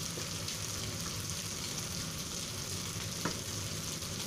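Chives, pork and dried tofu strips frying in a hot nonstick wok, a steady sizzle of oil. A single light click sounds about three seconds in.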